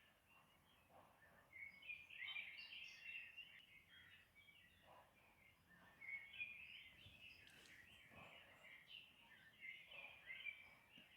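Faint chorus of small birds chirping and twittering, with many short calls overlapping.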